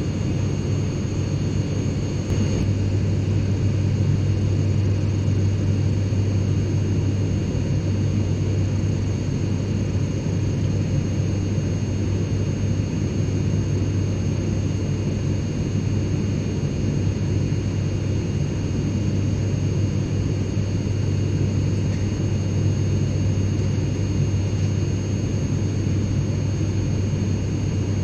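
Airplane cabin interior in flight: a steady, unbroken low rumble from the engines and airflow, with faint steady high-pitched tones above it.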